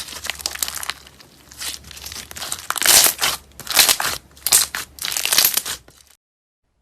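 Slime being squeezed and pressed by hand, giving a series of crunchy, crackling presses, the loudest about three seconds in. The sound cuts off abruptly to silence about six seconds in.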